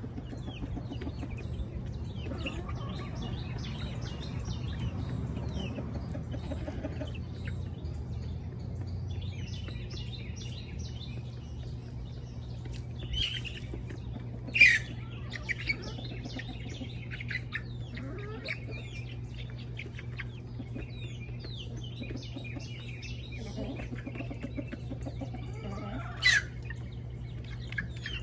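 Free-range backyard chickens clucking among a busy run of short, high bird chirps, with two louder sharp calls, one about halfway through and one near the end, over a steady low hum.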